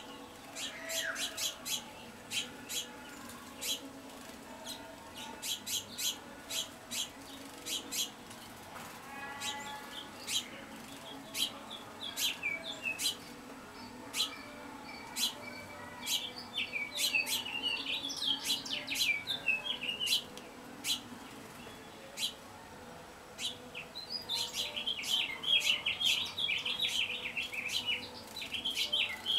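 Several small wild songbirds calling: many sharp, short chip-like clicks throughout, with bursts of twittering, warbling song in the middle and again near the end. A faint steady hum runs underneath.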